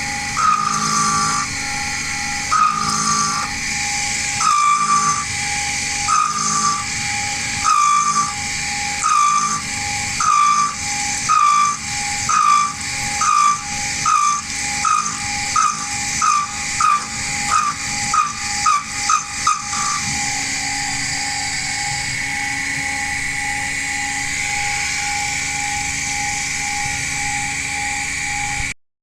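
CNC milling machine running: a steady spindle whine under repeated short whines from the stepper-motor axis moves. The moves come faster and faster, then stop about 20 seconds in, leaving the spindle running alone until the sound cuts off suddenly near the end.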